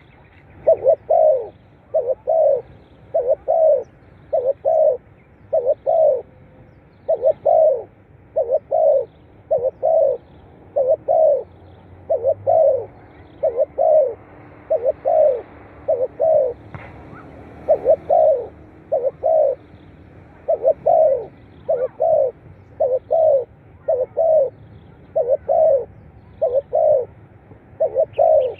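Spotted dove cooing over and over, short low coos in pairs, about one pair a second.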